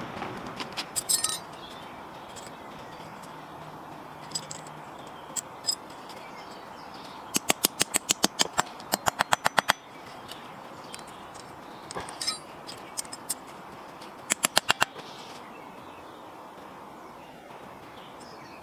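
Ratchet wrench clicking in quick runs, about six or seven sharp clicks a second, with a few single clicks between the runs.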